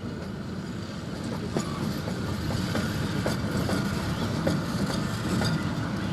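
A train running on rails: a steady low rumble with irregular clicks and knocks from the wheels, growing a little louder.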